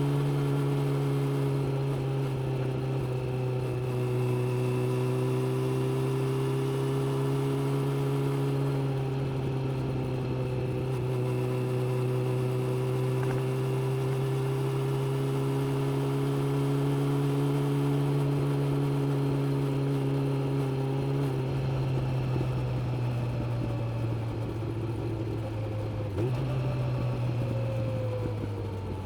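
Suzuki GSX600F's inline-four engine running at steady revs under way, then easing off about two-thirds through, its pitch dropping in steps near the end as the bike slows.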